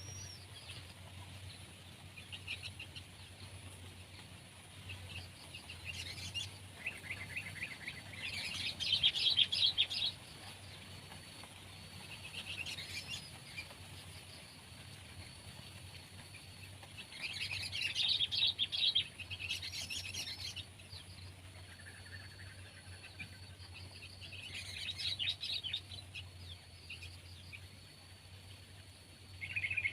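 Sooty-headed bulbuls singing in short bursts of chirping, bubbly phrases separated by pauses, the loudest about 9 seconds in and again around 18 to 20 seconds. A faint steady high tone runs underneath.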